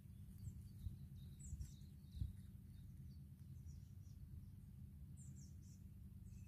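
Faint outdoor ambience: scattered high, short bird chirps over a steady low rumble, with a soft knock about two seconds in.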